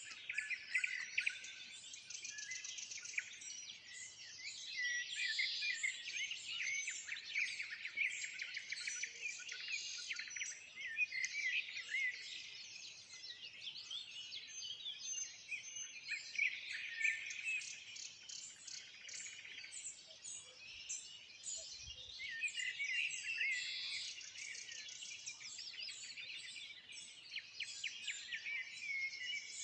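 Dawn bird chorus with nightingales singing: many overlapping songs of rapid trills, whistles and chirps, none of them ever stopping.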